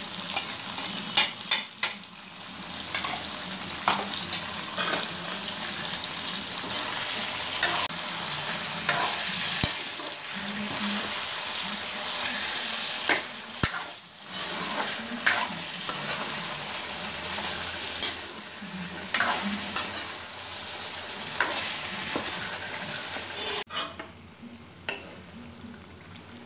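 Chicken and potato pieces frying in oil in a wok with freshly ground spice paste, sizzling steadily while a spatula stirs and scrapes against the pan with irregular clacks. The sizzle falls away sharply near the end.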